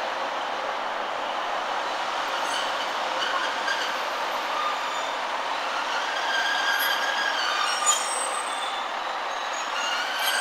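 Class 153 and Class 156 diesel multiple units moving along the platform: a steady running noise, with short high-pitched wheel squeals in the second half.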